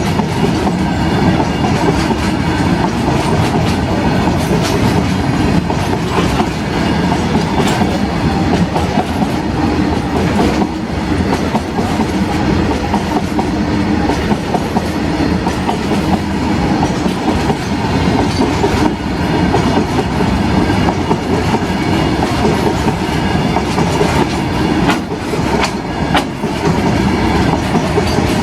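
Freight train of BTPN oil tank wagons rolling past close by, a steady rumble with wheels clattering over the rail joints.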